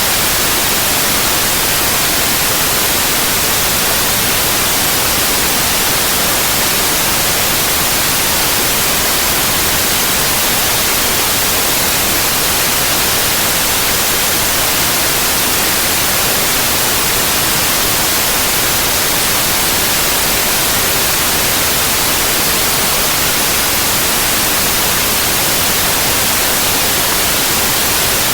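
Synthetic white noise: a steady, even hiss with no changes or interruptions.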